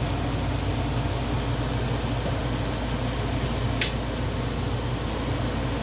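Chicken pieces sizzling steadily in a frying pan, over a steady low hum, with one short sharp clink about four seconds in.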